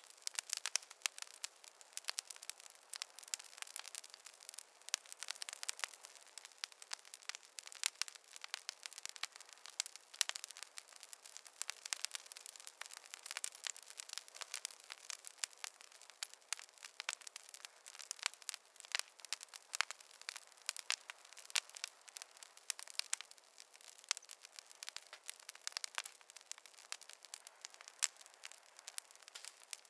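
Wood fire crackling: a dense, irregular run of sharp pops and snaps, thin with no low end.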